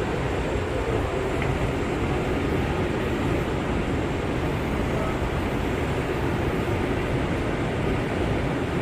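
Bombardier R179 subway train running between stations: a steady rumble of wheels on track and running gear that holds at an even level.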